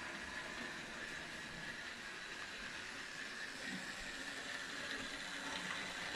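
Bachmann Thomas model locomotive running along model track: its small electric motor gives a steady high whine over the even rumble of the wheels.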